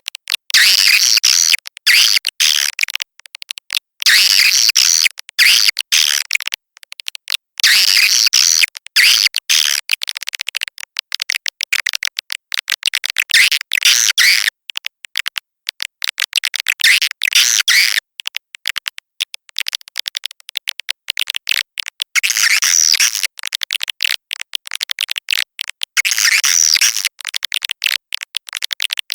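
Swiftlet lure-call recording (edible-nest swiftlet sound, 'SP walet'): dense, rapid high-pitched chirping and twittering, swelling in louder bunches every few seconds, with no low sound at all. It is the kind of call played in a swiftlet house to draw swiftlets in to nest.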